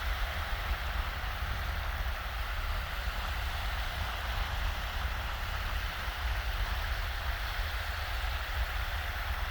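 Shallow waves washing steadily onto a sandy beach, as an even hiss of surf, over a steady low rumble of wind.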